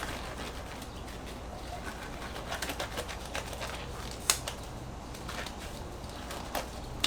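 Light clicks and rustling of hands handling things, with one sharp snap about four seconds in and a softer one near the end, over a low steady hum.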